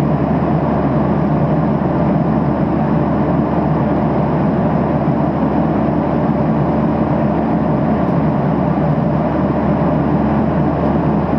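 Steady roar of a Boeing 737-800 in flight as heard inside the passenger cabin: CFM56 engine and airflow noise, mostly low and even, with no changes.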